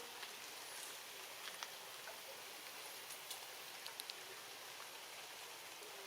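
Faint, steady rain hiss with a handful of sharp drip-like ticks, most clustered around a second and a half in and between three and four seconds in.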